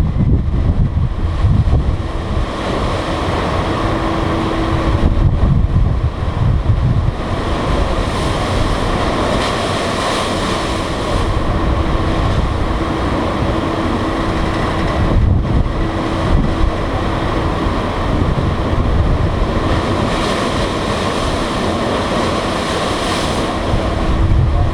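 Strong wind buffeting the microphone aboard a ferry underway in high winds, a steady rushing noise with gusts, over the wash of the water and a faint steady hum that comes and goes.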